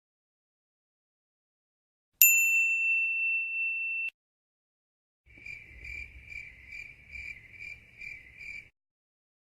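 A single bright bell ding that rings for about two seconds and cuts off. A few seconds later comes a high, pulsing cricket chirp, about two and a half chirps a second, for some three seconds.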